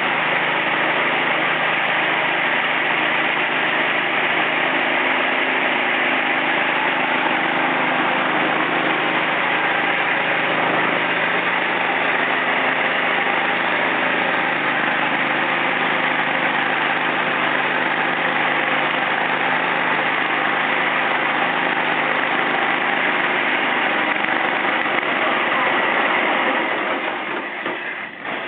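Gas-powered dual-disc concrete floor grinder running steadily through a pass over the concrete with coarse grit stones, then winding down and stopping near the end.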